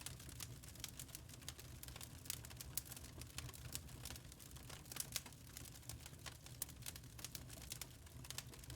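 Wood fire crackling: many irregular small crackles and pops over a low steady rumble of the flames.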